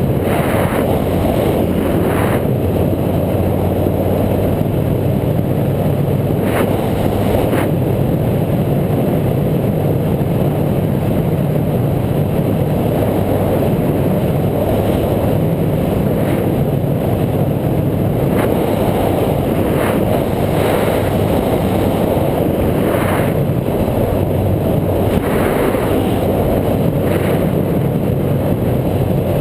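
Steady, loud rumble of riding: wind buffeting the action camera's microphone together with the bike's running and road noise, with a few faint ticks here and there.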